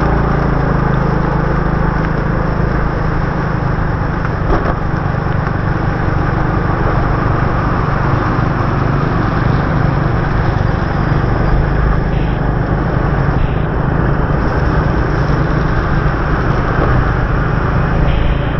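Motorbike engine running steadily at cruising speed, with tyre, rain and wind noise from the ride on a wet road. A brief click about four and a half seconds in.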